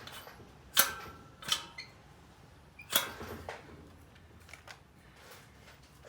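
Three loud, sharp metallic clicks and clinks about a second apart, the first briefly ringing, with a few fainter ticks after: hand tools and screws being handled while a part is being screwed back in.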